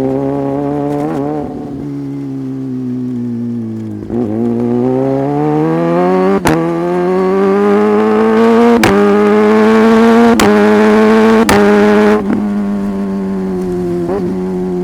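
Sport motorcycle engine under way, its pitch dipping about four seconds in, then climbing steadily as it accelerates before levelling off near the end. Four sharp, momentary cuts break the sound during the pull.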